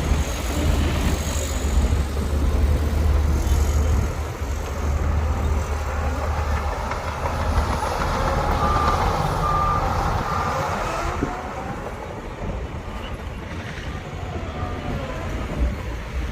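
Heavy diesel construction machinery running steadily with a low engine rumble, and a reversing alarm beeping three times about midway through.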